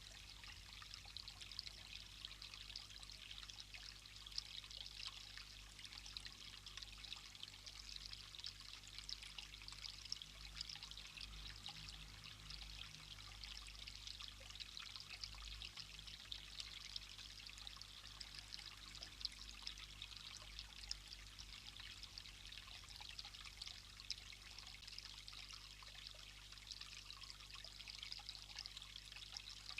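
Faint, steady hiss of running water.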